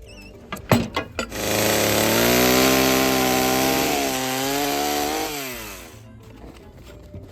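Gas chainsaw run at high revs for about four seconds, cutting into a black walnut log, then dropping in pitch as it winds down. A few sharp knocks come just before it.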